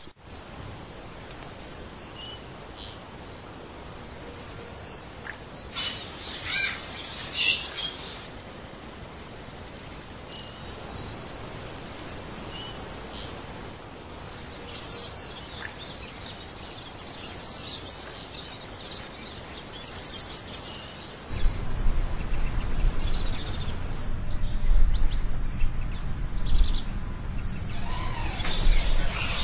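A bird calling over and over: a loud, high, rapid trill lasting about a second, repeated every two to three seconds, with short high whistled notes in between. A low rumble comes in about two-thirds of the way through.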